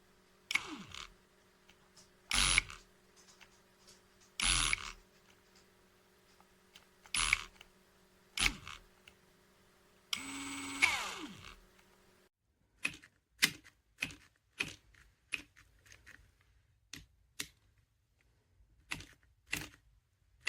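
Cordless drill driver being handled: a string of sharp clicks and knocks, irregularly spaced and quicker in the second half. Near the middle comes a burst of motor noise about a second long.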